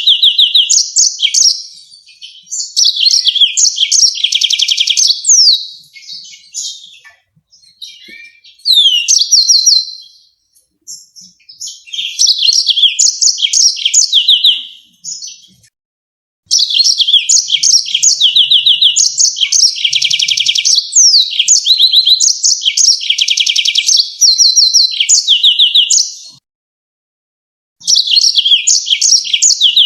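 Yellow-fronted canary singing loud, fast phrases of rapid high chirps and trills with a few quick sliding whistles, in bursts of a few seconds up to about ten, separated by short pauses.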